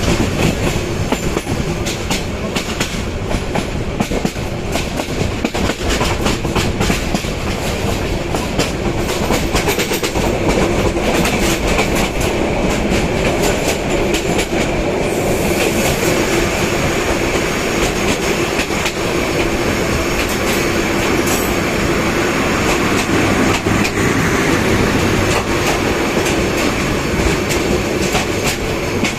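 Bangladesh Railway passenger train running past close by, its wheels clattering over the rail joints in quick clicks. From about halfway a steady ringing tone from the wheels on the rails joins in.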